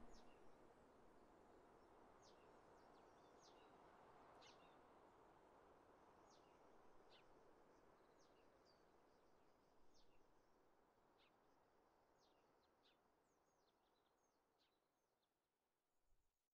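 Near silence: birds chirping faintly, many quick high chirps that fall in pitch, over a soft outdoor hiss that slowly fades away.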